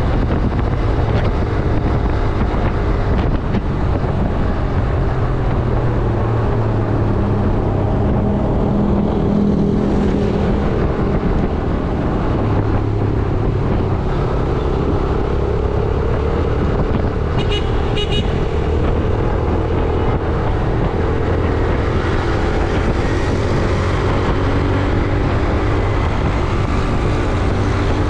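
Yamaha YBR 125G motorcycle's single-cylinder four-stroke engine running under way in heavy traffic, its pitch rising and falling with the throttle. A vehicle horn gives two short toots about two-thirds of the way through.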